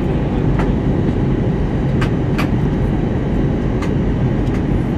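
Steady low roar of engines and airflow inside an Airbus A319 airliner cabin on descent, with a few light clicks about half a second, two seconds and four seconds in.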